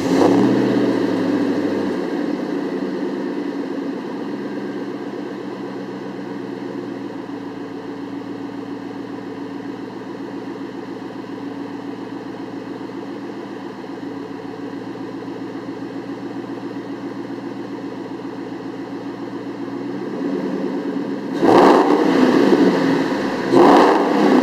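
2003 Mustang SVT Cobra's supercharged 4.6-litre V8 running through a Borla Stinger exhaust, just after start-up: it flares high for a moment, then settles over a couple of seconds into a steady idle. Near the end it is revved twice in quick succession.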